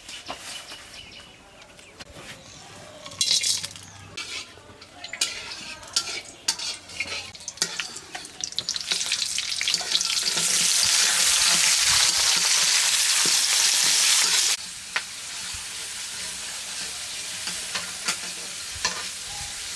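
Food frying in hot oil in a cooking pot, with the knocks and scrapes of stirring. A loud sizzle builds from about eight seconds in, then drops suddenly to a quieter, steady sizzle about three-quarters of the way through.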